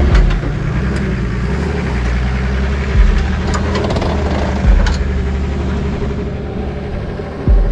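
Lifted Nissan Patrol GQ's engine running at low speed as the truck crawls up a rutted rock climb, with a few low thumps along the way.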